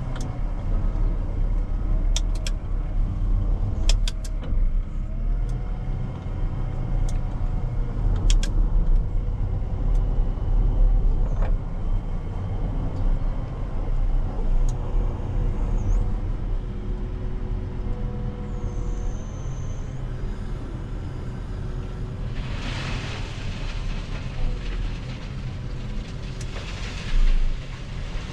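Heavy loading machine's diesel engine running steadily, with a few sharp knocks early on and gliding hydraulic whines; twice near the end a loud rushing hiss.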